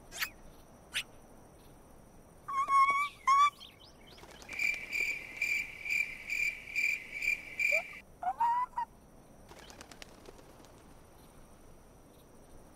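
Cartoon songbirds chirping: a few short gliding whistled calls, then a run of evenly repeated high chirps, about two or three a second, for some three seconds in the middle, and a couple more rising calls after it.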